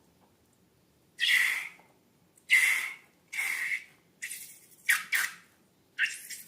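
About seven short, sharp noises in an irregular run, each lasting well under a second, from hands working slime and filled balloons. Two of them come as a quick pair about five seconds in.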